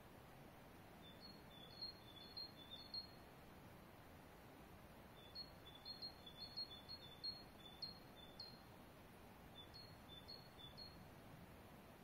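A small songbird chirping faintly in three short bouts of quick, high notes, each note paired with a slightly lower one.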